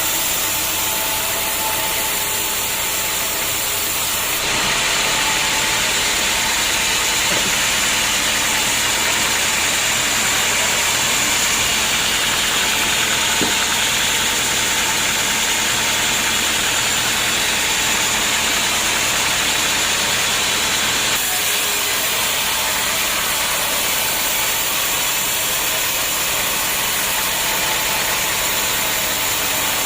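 Homemade band sawmill running steadily under its motor. From about 4 s in until about 21 s the sound is a little louder, with more hiss.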